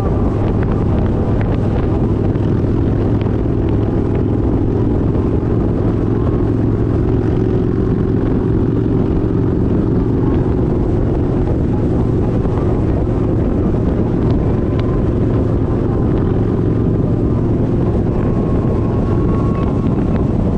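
Kawasaki Vulcan 1700 Vaquero's 1700cc V-twin engine running at a steady pace while the motorcycle cruises, with no revving or gear changes.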